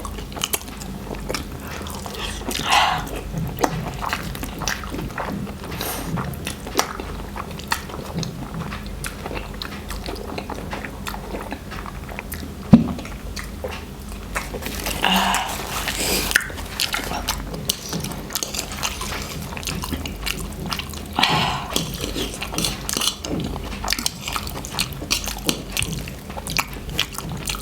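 People eating spicy noodles: chewing and small wet mouth clicks throughout, with a few louder noisy breaths or slurps and one sharp click about halfway through. A steady low hum runs underneath.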